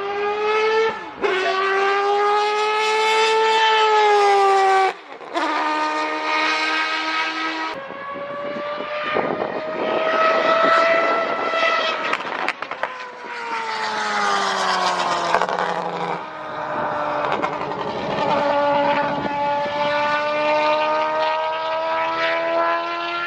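Race car engine at high revs, climbing in pitch with sharp breaks for upshifts about 1, 5 and 8 seconds in. The pitch falls off from about 13 s to 18 s as the car slows, then climbs again.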